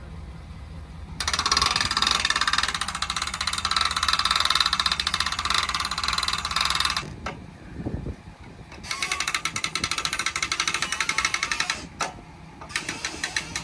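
A ratchet clicking rapidly in three bouts, the first and longest lasting several seconds, as the boat is drawn tight onto its trailer.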